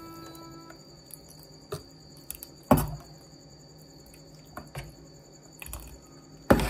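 A ladle stirring and scooping thick sweet soup in a stainless steel pot, the soup pouring and dripping back in. Two sharp knocks of the ladle on the pot, about three seconds in and near the end, are the loudest sounds.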